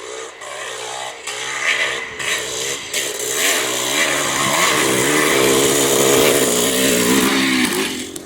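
Vintage motocross bike engines revving hard on the track, their pitch rising and falling with throttle and gear changes. The sound builds to its loudest about five to seven seconds in as a bike comes close, then drops away sharply near the end.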